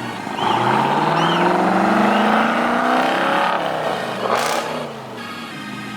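A car engine accelerating hard, its pitch climbing steadily for about three seconds before it eases off, followed by a short sharp bang about four and a half seconds in.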